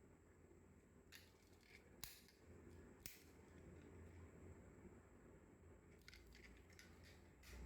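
Faint, sharp clicks and light handling noises over near silence, a few about a second apart early on and a quick cluster near the end: small diecast model cars being handled.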